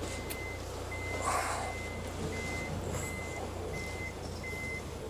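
Electronic beeper sounding a steady run of short, single-pitch beeps, about six in all, over a low hum, with a brief swish about a second in.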